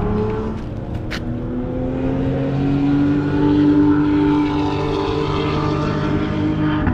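A motor running steadily, its pitch climbing slowly over the first few seconds and then holding.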